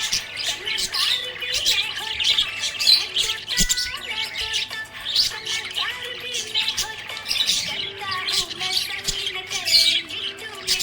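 Budgerigars chirping and chattering without a break, a dense stream of short high chirps with the odd squawk.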